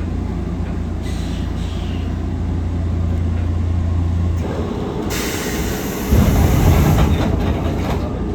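Nankai 6200 series resistor-controlled electric train running, heard from inside the car: a steady low hum, joined about five seconds in by a loud hiss and a second later by a heavier rumble.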